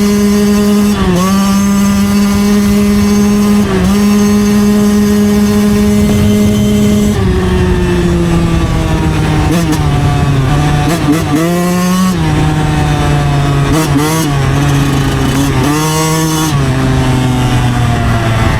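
2009 Yamaha YZ125's single-cylinder two-stroke engine held at high revs at a steady pitch, dipping briefly about one and four seconds in. From about seven seconds in the revs fall in several steps with quick blips in between, running lower and lower toward the end.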